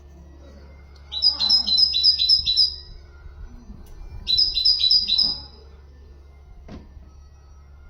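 Songbird singing two phrases of quick, evenly repeated two-part notes, about six in the first phrase and four in the second, over a steady low hum. The bird is the one called 'haddad' (blacksmith), and its song is being used as a tutor song for goldfinches and canaries. A single click comes near the end.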